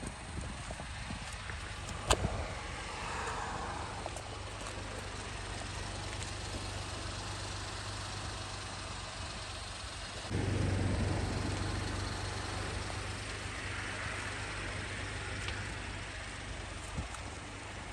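A vehicle engine running steadily with a low hum, a sharp click about two seconds in, and the engine getting louder about ten seconds in before easing back.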